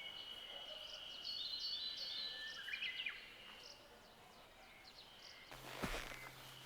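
Several birds chirping and calling, over a steady high-pitched tone. About five and a half seconds in, a low hum starts and there is one sharp knock.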